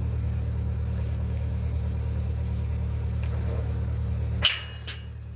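A steady engine hum from the running engine, then about four and a half seconds in the hum drops off suddenly and two sharp cracks come about half a second apart.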